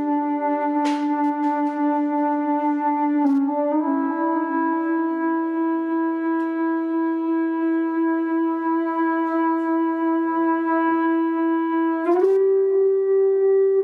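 Eastwood Airline H44 electric guitar sustained by an EBow, run through overdrive and delay into a Fender Excalibur amp: long, overlapping held notes that slide to a new pitch about three and a half seconds in and again near the end, with a few faint clicks about a second in.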